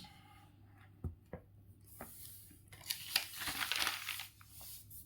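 Faint crackling, rustling noise with a few soft clicks before it.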